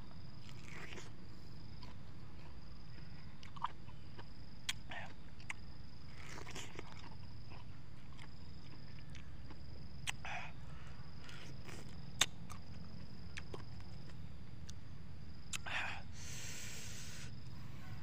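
Someone biting and chewing juicy pineapple with the mouth close to the microphone: scattered short wet crunches, smacks and slurps, the sharpest about twelve seconds in, over a steady low background hum and a thin steady high tone.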